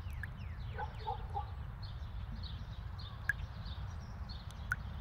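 Outdoor birdsong ambience: many small birds chirping, with a few short lower calls about a second in, over a steady low rumble.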